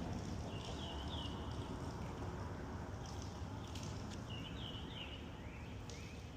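A steady low background noise, with clusters of short, high chirping calls from small birds: about a second in, again around four seconds in, and near the end.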